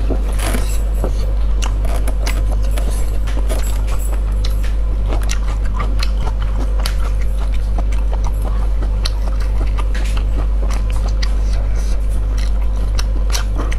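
Close-miked chewing with many sharp, wet mouth clicks as a person eats a ring sausage, over a steady low hum.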